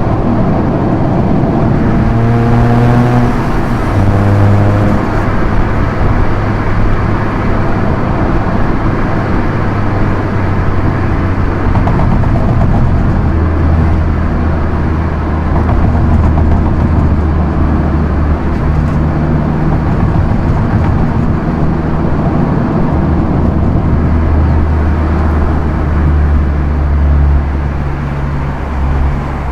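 Proton Inspira 1.8's four-cylinder engine cruising, a steady low drone over tyre and road noise. In the first few seconds the engine note shifts in pitch a few times, then it holds steady.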